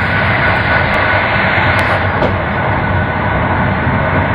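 Running noise of an intercity passenger train at speed, heard inside the rear of the last carriage: a steady rumble and rush of wheels on the rails, with a faint steady whine above it.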